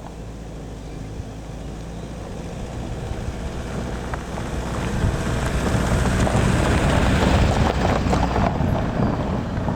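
Toyota RAV4 driving on a forest track, its engine and tyre noise growing steadily louder as it comes closer, loudest about seven seconds in.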